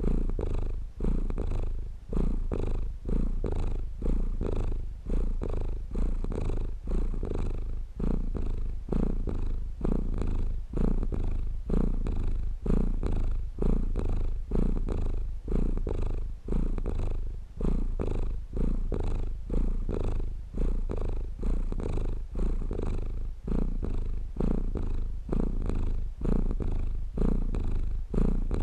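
Domestic cat purring steadily close to the microphone, a low rumble that swells and dips in a regular rhythm of about one cycle a second as it breathes in and out.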